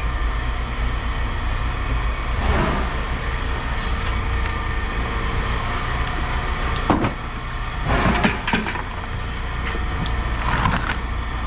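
A steady low machine hum, with pieces of scrap metal clattering down several times: once about two seconds in, then a cluster of clanks in the second half.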